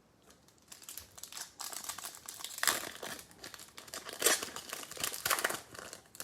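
Plastic wrapper of a Bowman baseball card pack crinkling and tearing as it is ripped open by hand, an irregular crackle starting just under a second in.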